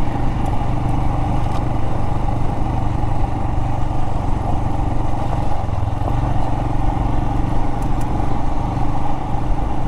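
Royal Enfield Himalayan's single-cylinder engine running at a steady, even pace while the motorcycle is ridden, with a constant rush of noise over it.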